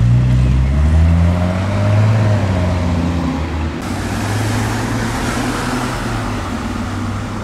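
Car engine rising in pitch as it accelerates over the first couple of seconds, then running at a steady pitch. About four seconds in, a hissing noise comes in suddenly over it.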